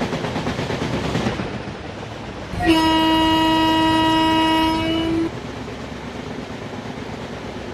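Rumble of a train in motion with a rhythmic ripple. About two and a half seconds in, an Indian Railways WAP-7 electric locomotive sounds one steady horn blast of several notes together, lasting about two and a half seconds.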